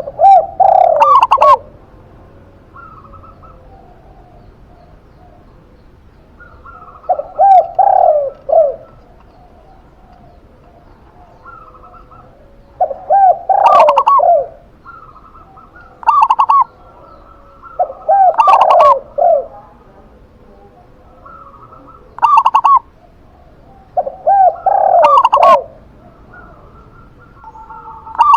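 Zebra dove (perkutut) and spotted dove (tekukur) cooing. Loud bouts of rolling coos come every three to six seconds, about seven in all, with fainter, higher coos between them.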